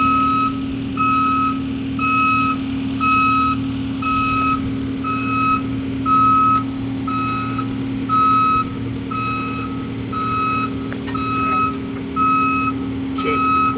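A heavy machine's reversing alarm beeps about once a second over its engine's steady running; the lower engine rumble eases about eleven seconds in.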